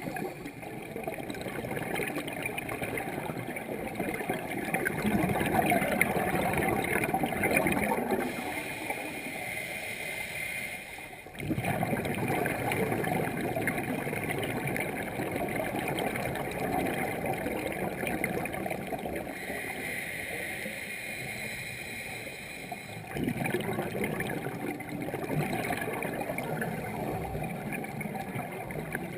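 Steady gurgling water noise with no voices. It cuts off briefly about eleven seconds in and comes back, and steps up again later.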